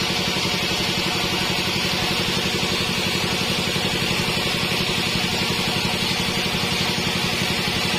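Sawmill bandsaw machine running steadily, a fast even engine-like pulse under a constant hiss.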